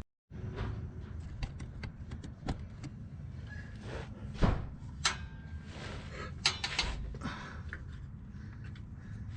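Scattered clanks, taps and scrapes of metal parts and tools being handled while exhaust pipe and tips are fitted, over a steady low hum.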